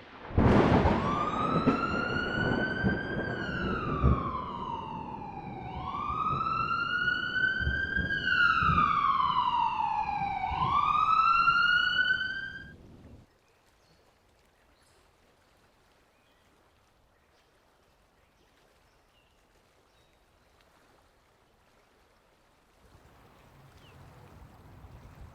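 A siren wailing, slowly rising and falling in pitch with three rises in all, over rumbling background noise; it cuts off about thirteen seconds in, and only faint noise returns near the end.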